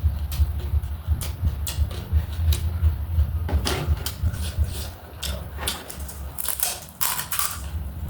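Crisp clicks and crunches of chatpate, a spicy puffed-rice snack, being handled and eaten by hand, thicker in the second half, over a steady low hum.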